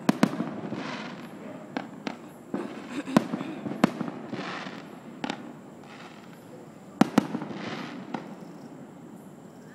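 Aerial fireworks shells bursting: about nine sharp bangs at uneven intervals, with crackling between them.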